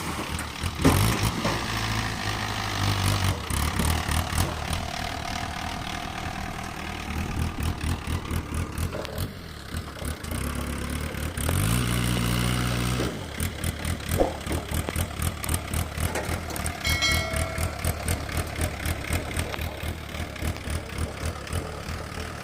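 Diesel engine of a tractor or backhoe loader idling with an even chugging rhythm. It is revved up briefly around the middle, then settles back to idle.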